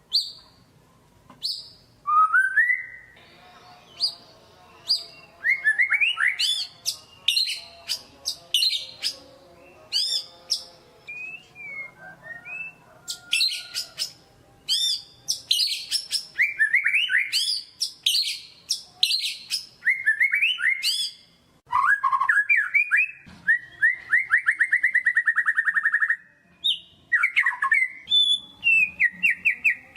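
White-rumped shama singing a full, varied song: sharp single notes at first, then dense whistled phrases and rapid trills, with a long fast trill a little past the middle.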